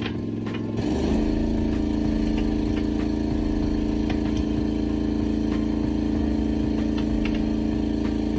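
Engine running steadily, stepping up to a faster, louder speed about a second in and holding there.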